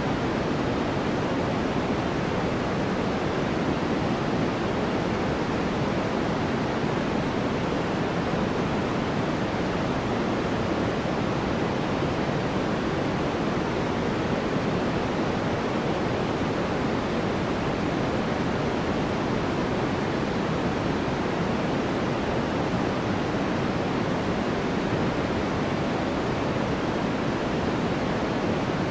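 Steady, unchanging synthetic sleep noise of the kind sold as white noise. It is a soft, even hiss weighted toward the lower middle, with no breaks or changes.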